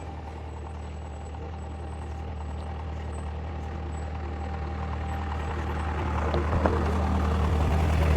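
Vehicle engine running steadily with a low hum, growing gradually louder.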